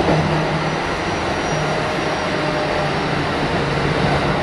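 Kintetsu 1420 series electric train running, heard inside the car: a steady rumble of wheels and running gear with a low hum that fades in and out.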